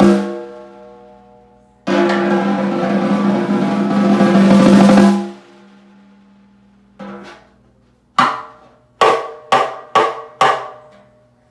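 A 6.5 x 14 inch wood-shell snare drum, tuned medium to high, being played. A stroke rings out at the start, then a roll swells for about three seconds and stops. A soft stroke follows, then five single strokes, each ringing briefly.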